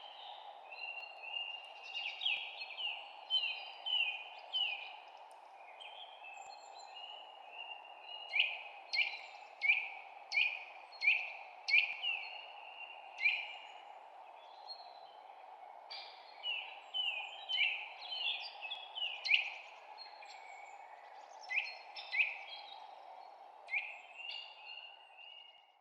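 Songbirds chirping in runs of quick, sharp, down-slurred chirps, several a second, with short pauses between the runs, over a steady background hiss.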